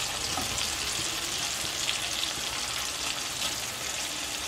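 Masala paste frying in hot oil in a kadhai, sizzling steadily as soaked split moong dal (mogar) is tipped in from a steel bowl.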